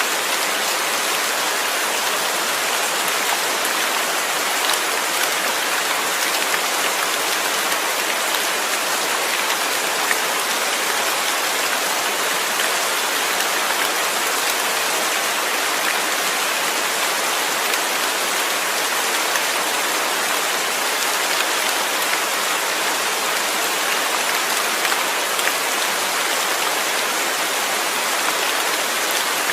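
Steady rain falling, with the hiss of many drops on a surface and small scattered patters.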